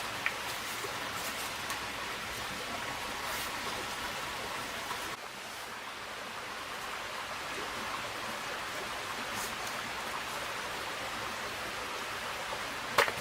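Steady hiss of water, like rain or a stream.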